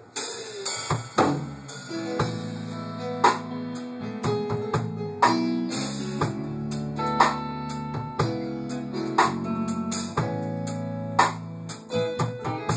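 Instrumental intro of a slow love song played by a band: held guitar chords over a drum kit, with a sharp drum hit about every two seconds.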